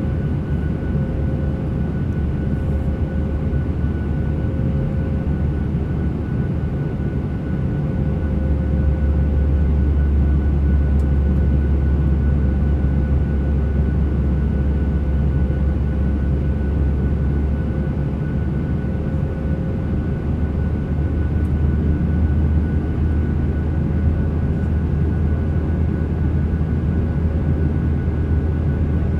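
Passenger jet cabin noise: a steady engine drone and rush of air, with a thin steady tone above it. The low rumble swells a little about a third of the way in and again near the end.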